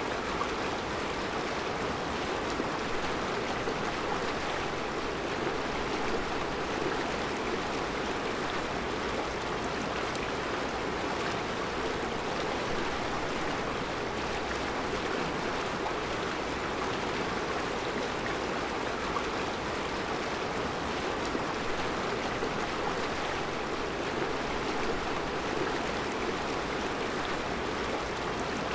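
Mountain river flowing over a rocky bed of round stones, a steady rushing of water.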